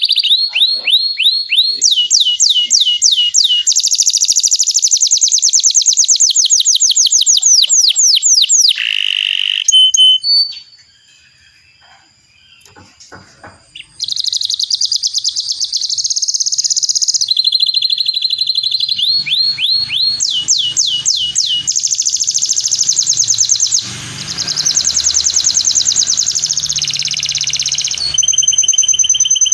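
Domestic canary singing long rolling trills: fast runs of repeated high notes, one run after another. The song stops for about three seconds a little after the first third, leaving only faint clicks, then resumes.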